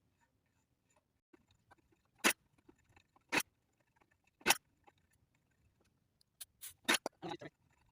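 A series of short, sharp clicks or knocks: three about a second apart, then a quick cluster of several near the end, with no engine running between them.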